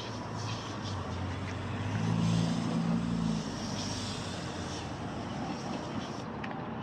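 Outdoor background hum with a passing vehicle's engine, a low hum that swells about two seconds in and fades again about a second and a half later.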